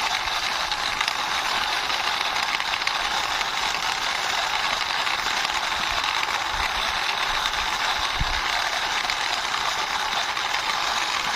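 Plastic toy police car pushed by hand along a wall, its wheels and body giving a steady rattling clatter as it rolls.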